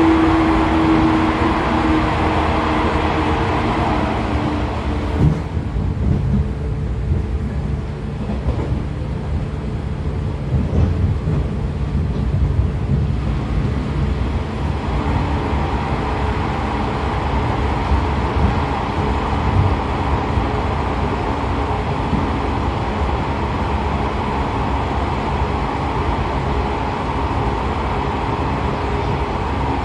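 113 series electric train running, heard on board a motor car: MT54 DC series-wound traction motors humming with several steady tones over the rumble of the wheels and bogies. A click comes about five seconds in, after which the upper hiss drops away. The fuller sound returns about fifteen seconds in.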